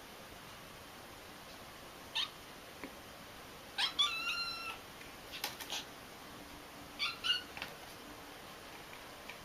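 A cat meowing: three short, high-pitched calls, the longest and loudest about four seconds in.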